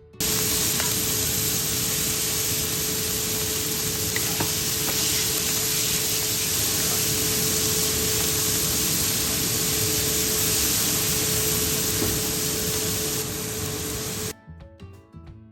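Sliced conch and vegetables stir-frying in hot oil, a loud, steady sizzle with a constant hum beneath it. It starts abruptly and cuts off about fourteen seconds in.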